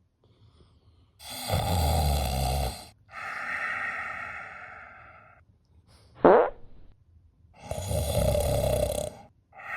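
Snoring in two cycles: each a loud rasping snore in, followed by a quieter, fading breath out. A short rising whistle comes between them, the cartoon snore-and-whistle pattern.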